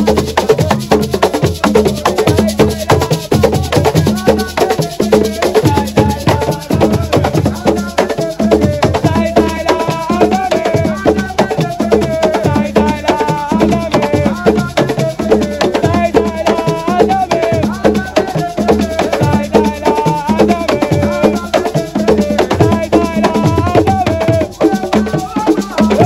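Senegalese assiko: hand drums and clacking percussion beating a fast, steady rhythm under voices singing a chant together.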